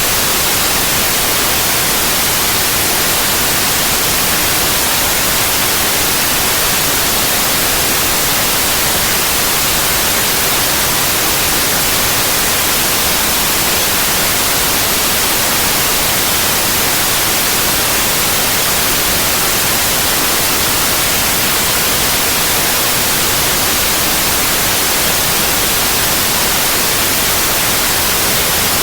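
Synthetic white noise: a steady, even hiss with no changes or interruptions.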